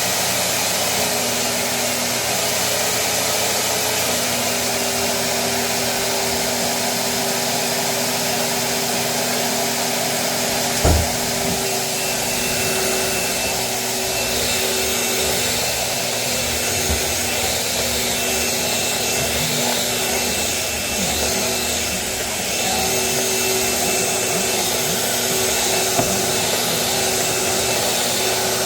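Vacuum cleaner running steadily, a motor hum under a rush of air, with a sharp thump about eleven seconds in and a lighter knock later.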